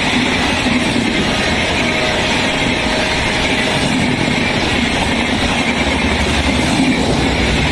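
Passenger coaches of an express train running past at high speed: a loud, steady noise of wheels on the rails and the coaches rushing by.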